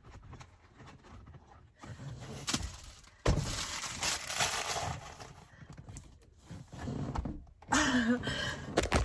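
Handling noise from a plastic car trash can being fitted onto a car's centre console: scattered knocks and rustling, with a sharp knock about three seconds in followed by a burst of rustling, and more rustling near the end.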